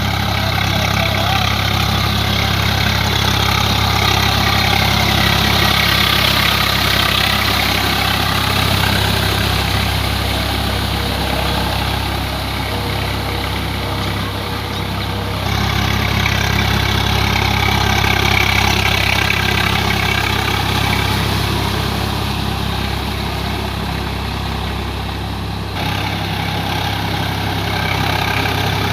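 Swaraj 744 FE tractor's three-cylinder diesel engine running steadily while working a rotavator. The sound shifts abruptly twice, about halfway through and near the end.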